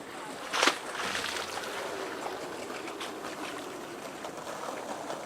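Small harbour waves lapping against the pier edge, a steady wash with one sharper slap about half a second in.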